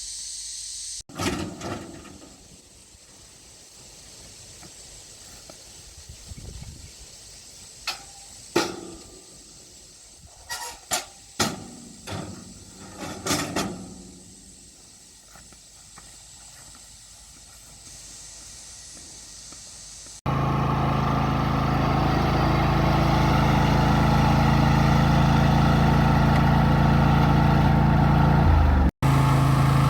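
Scattered knocks and clicks over a steady high hiss, then, about two-thirds of the way in, the engine of a Craftsman YT4000 ride-on mower is heard running steadily and loudly. It cuts out briefly near the end.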